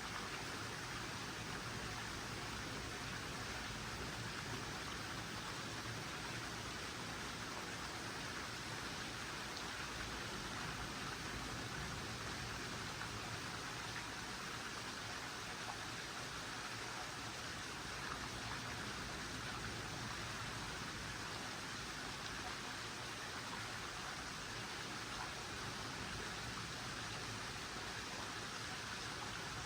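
Comfortmaker SoftSound 2-ton heat pump outdoor unit running steadily in heat mode, its fan giving an even airy rush with no change in level.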